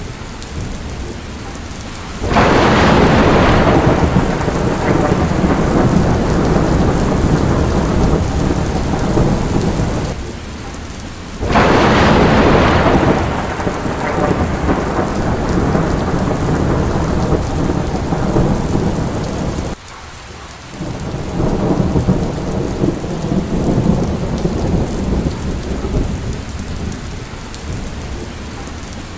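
Rain falling steadily in a thunderstorm, with thunder breaking in suddenly about two seconds in and again about eleven seconds in, each peal rumbling away over several seconds.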